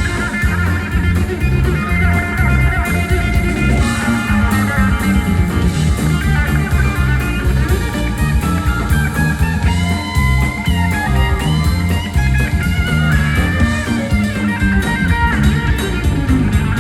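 A live country-rock band playing an instrumental stretch: an electric guitar plays a bending, improvised lead line over bass and a steady drum beat with cymbals.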